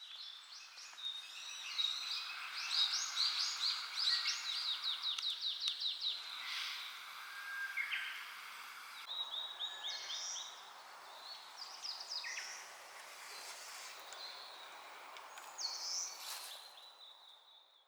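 Wild birds singing over a soft steady outdoor hiss: quick trilled phrases and runs of repeated high notes, several songs overlapping.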